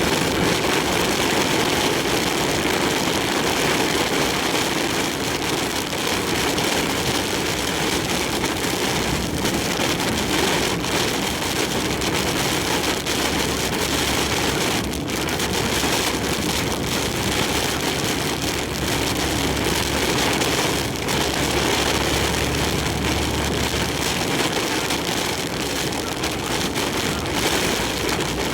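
Heavy typhoon rain and strong wind on a large truck's cab as it drives, a loud steady rushing noise. A low drone from the truck joins underneath from about nine seconds in until about twenty-four seconds.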